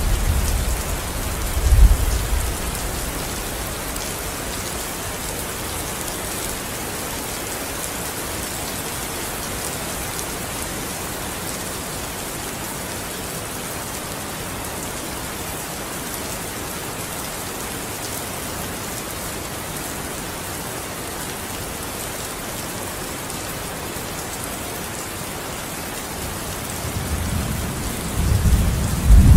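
Steady rain falling, an even hiss. Thunder rumbles at the start, peaking about two seconds in and dying away, and builds again near the end.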